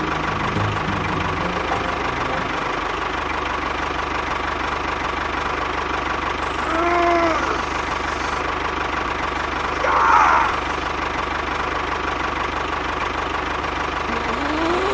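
A small motor running steadily, with two brief rising-and-falling pitched sounds about halfway through.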